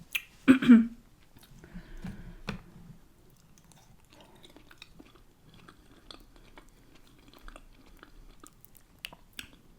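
Close-miked chewing, biting and wet mouth clicks of a person eating, with one brief loud sound about half a second in.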